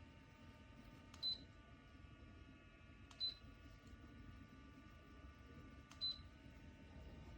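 Humidifier control panel beeping as its buttons are pressed: three short high beeps, each with a click, a couple of seconds apart, over a faint low hum.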